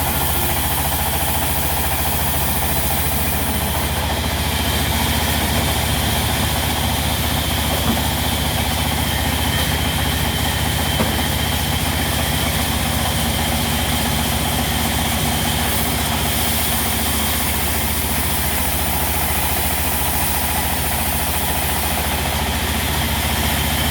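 Diesel engine of a sawmill running steadily at constant speed, with a faint high whine joining in about four seconds in.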